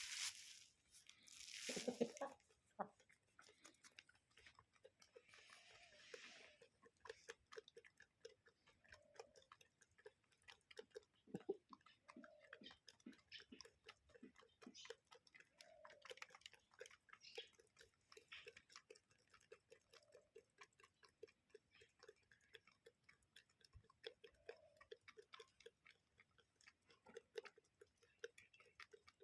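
Chickens pecking at feed: faint, rapid ticks and crunches, with soft low clucks every couple of seconds. A brief rustle about two seconds in is the loudest moment.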